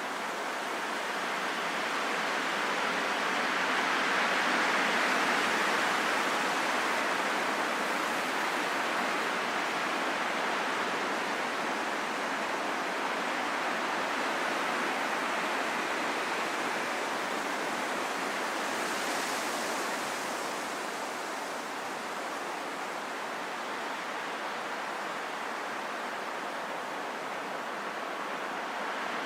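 Steady wind blowing as a smooth rushing noise. It swells gently a few seconds in and then slowly eases back.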